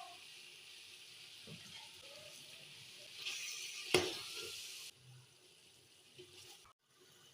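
Food sizzling in a frying pan, a steady hiss that grows louder about three seconds in, with a sharp clack about four seconds in. The sizzle cuts off abruptly about five seconds in.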